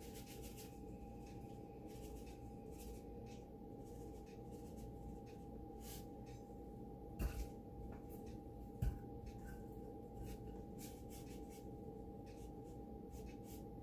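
Quiet kitchen room tone with a steady faint hum, faint scattered ticks and two soft thumps about seven and nine seconds in, as seasoning mix is sprinkled over raw chicken breasts in a crock pot and the chicken is turned to do both sides.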